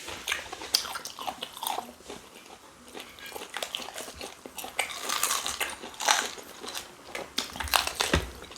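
Eating sounds: biting and chewing pieces of cow tail from a pepper soup, heard as irregular short clicks and crunches.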